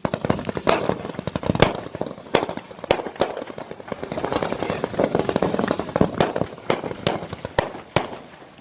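Fireworks going off: a rapid, irregular string of sharp cracks and pops over a steady crackling haze.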